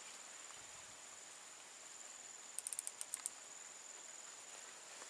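Insect trilling steadily at a high pitch, faint, with a quick run of about eight light clicks about two and a half seconds in.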